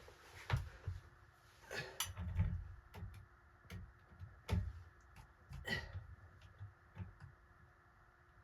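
Irregular light clicks and knocks from hands and tools working on small parts, about ten over several seconds with soft low thuds between them.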